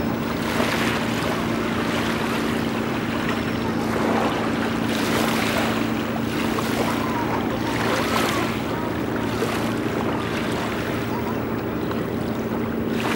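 Distant freight train heard across a lake: the steady drone of its diesel locomotives with the rumble of the passing cars, under a rushing noise that swells and fades several times.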